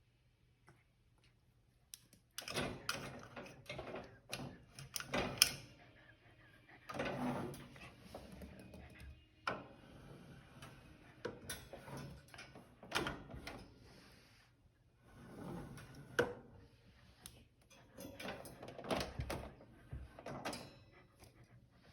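Irregular knocking, scraping and rattling in a small room, coming in clusters with short pauses, like a door, latch or enclosure being worked at.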